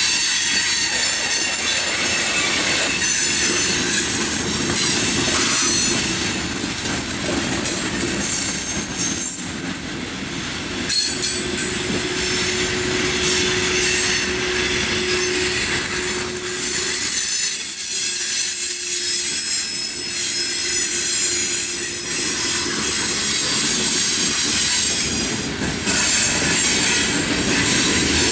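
Freight train of coal hopper cars rolling past, steel wheels squealing against the rails in long, high, drawn-out tones over a steady rolling noise.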